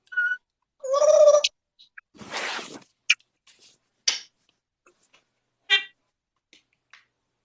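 Parrot making a string of short calls: a brief whistle, then a louder pitched call about a second in, a hissing squawk, a few sharp clicks and a short chirp near the end.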